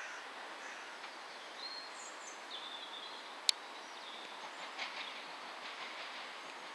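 A train approaching in the distance, heard as a steady faint rail noise, with a few high thin chirps early on and one sharp click about halfway through.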